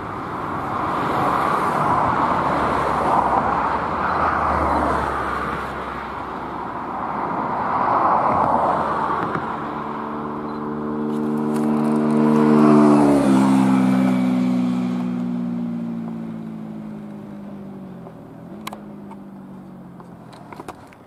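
Empty freight hopper wagons of an electric lignite train rolling past, their wheels rumbling on the rails, the noise swelling and fading as the wagons go by. Midway a passing vehicle's hum drops sharply in pitch and then fades, with a couple of sharp clicks near the end.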